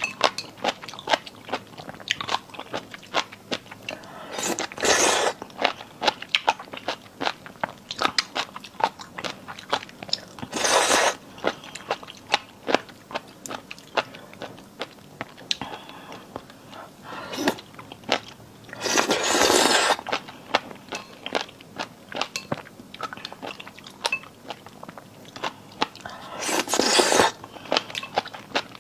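Close-miked chewing and biting of crunchy marinated seafood: a steady run of crisp crunches and mouth clicks. About four times it is broken by a longer, louder burst of noise.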